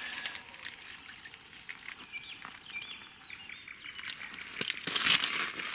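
A bird chirps a few short notes, then near the end a loud burst of rustling and slapping.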